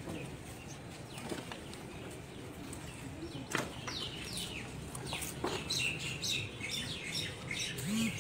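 Small birds chirping in quick, falling notes, sparse at first and growing busier about halfway through.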